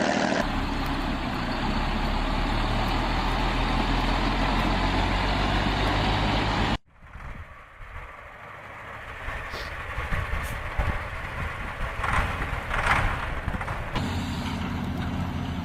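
Heavy truck engine running steadily and loud. It cuts off abruptly about seven seconds in, giving way to quieter vehicle running sounds with scattered knocks and clanks.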